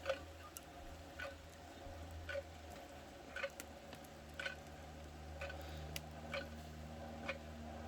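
Wood fire crackling faintly: scattered small ticks and pops, about one every half second to a second, over a low steady hum.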